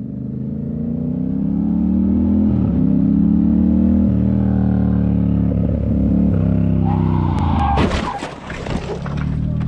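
A motorcycle engine accelerating hard, its pitch climbing with brief steps like gear changes. About eight seconds in comes a sudden burst of noise with sharp knocks and clatter.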